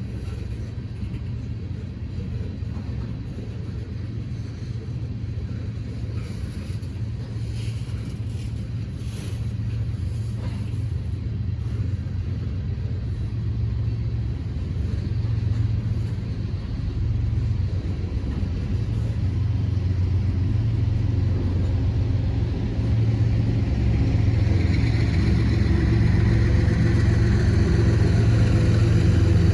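Approaching diesel train: a low engine rumble growing steadily louder, with a higher whine or squeal joining near the end.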